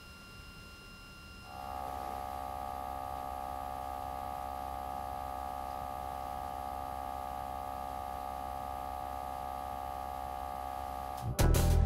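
NZXT Kraken X61 liquid CPU cooler running under test: its radiator fans and pump give a steady whirring drone with several held whining tones and a low hum, stepping up to a louder level about a second and a half in. A much louder burst of music cuts in just before the end.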